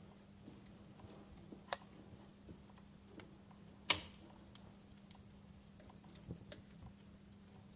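Wood fire crackling, with sparse sharp pops and snaps, the loudest about four seconds in, over a faint steady low hum.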